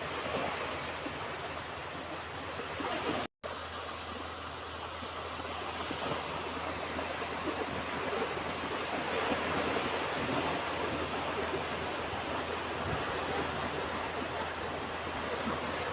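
Ocean waves washing onto a beach: a steady, even surf sound. It cuts out completely for a split second about three seconds in.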